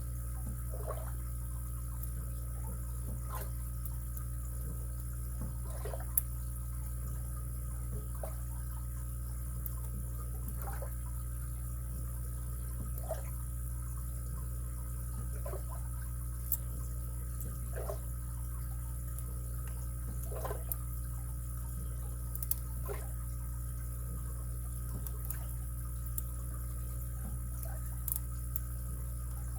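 Faint, scattered clicks and ticks of a lock pick and tension wrench working the pins inside a padlock, a few sharper clicks among them, over a steady low hum.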